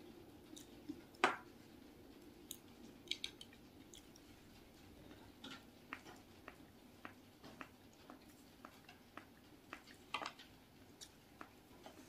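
Close-up eating sounds: soft bread being chewed, with scattered small clicks and crackles as a crusty-topped bun is torn apart by hand.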